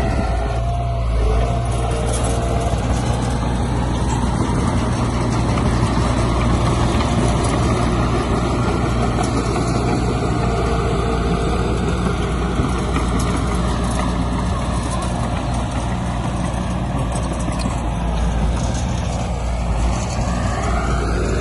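Heavy diesel engine of construction machinery running steadily, with its note shifting near the end.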